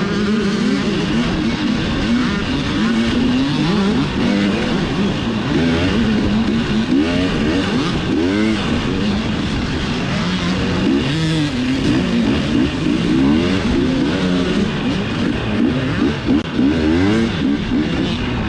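Dirt bike engine revving up and down over and over as the throttle is worked and the gears change through trail riding, with its pitch rising and falling every second or two.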